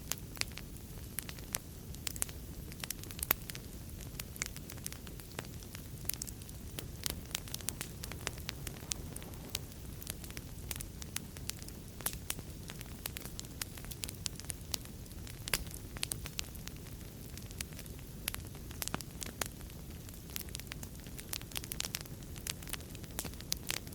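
Wood fire in a fireplace crackling: many small irregular pops and snaps over a soft steady low rumble of the flames.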